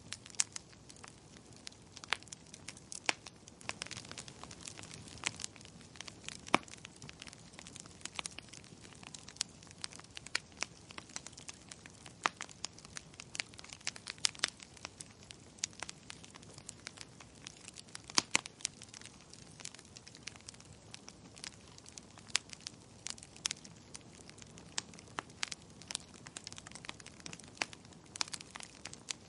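Wood fire crackling: irregular sharp pops and snaps, some much louder than others, over a soft steady hiss of burning.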